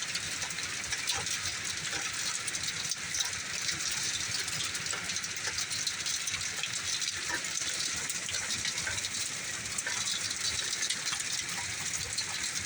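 Heavy rain pouring down in a steady rush, with a dense ticking of drops striking and splattering against a door and window.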